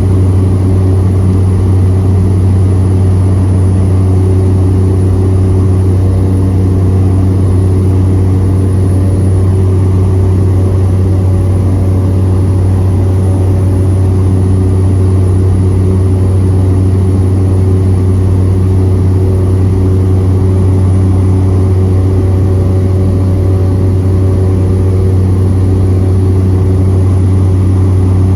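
Cessna 208B Grand Caravan EX's single Pratt & Whitney PT6A-140 turboprop and propeller, a loud, steady low drone with no change in pitch, heard from inside the cabin.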